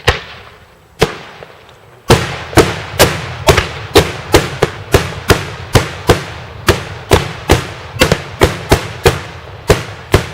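Daytime fireworks going off: a single loud bang, another about a second later, then from about two seconds in a fast run of loud bangs, roughly four a second, each echoing briefly.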